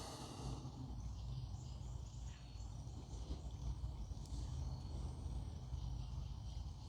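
Faint small scrapes and rustling of hands working a crimp ferrule over the double braid of RG400 coax cable, over a steady low hum.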